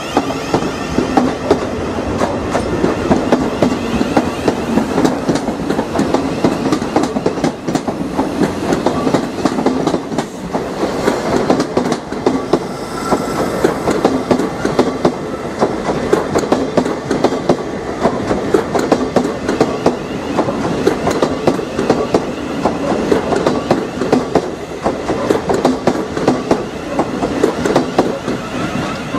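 Electric multiple-unit passenger train pulling out and rolling past close by, its wheels clacking in a rapid run over rail joints and points above a steady rumble.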